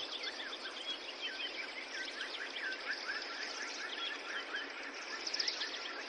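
A dense chorus of songbirds, many short chirps and warbling calls overlapping, over a steady hiss of rain.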